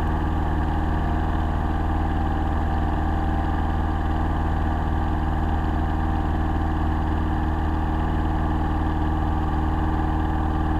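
Piper PA-22 Tri-Pacer's four-cylinder Lycoming engine and propeller droning steadily in flight.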